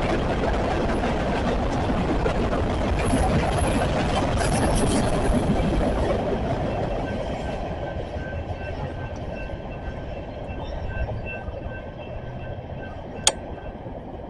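Westbound CSX freight train rolling past, a dense rumble and clatter of rail cars that dies away steadily from about six seconds in as the train moves off. A single sharp click sounds near the end.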